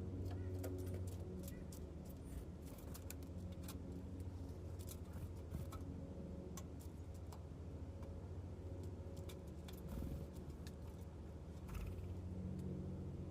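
Irregular small taps and clicks of birds pecking and handling seed at a feeder, thickest in the first half, over a steady low hum.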